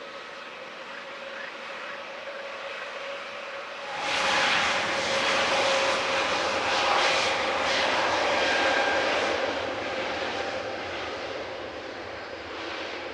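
Airbus A320neo's turbofan engines: a steady whine, then about four seconds in a loud jet roar swells up and holds for several seconds before easing off.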